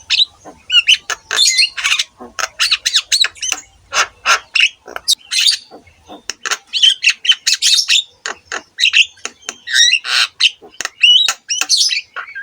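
Javan myna (jalak kebo) singing continuously: a rapid, unbroken string of harsh squawks, clicks and short whistles, a few of them bending in pitch near the end.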